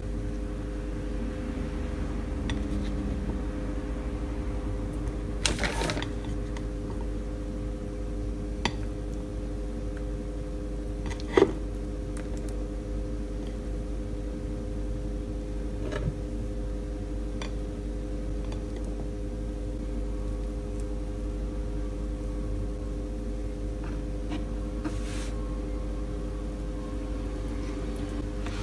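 Steady hum of a running kitchen appliance, with a few sharp clinks and knocks of kitchenware, the loudest about eleven seconds in.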